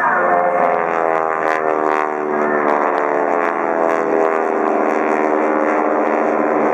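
Propeller aircraft, the AeroShell team's T-6 Texans with their radial engines, passing by as a steady, loud drone whose pitch slowly falls as they go by.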